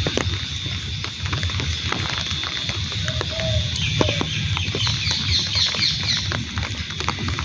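Rain falling during a monsoon walk: many raindrops tapping over a low rumble, with a steady high-pitched tone throughout. A short quick series of bird chirps comes about five seconds in.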